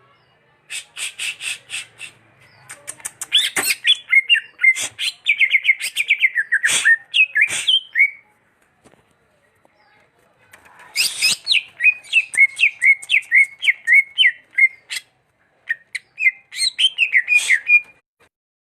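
Green leafbird (cucak hijau) singing: rapid runs of short, down-slurred whistled notes mixed with sharp chips, in three bursts separated by brief pauses.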